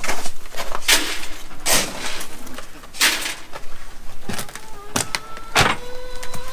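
Footsteps crunching on icy snow, a crunch about every half second to second.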